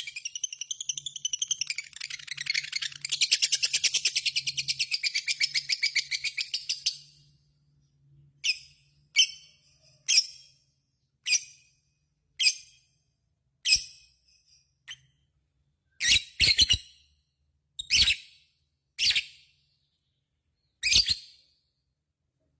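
Lovebird 'ngekek': a long, fast chattering trill of rapid high chirps, rising and falling in pitch, that breaks off about seven seconds in. It is followed by single sharp chirps about a second apart, a few of them doubled.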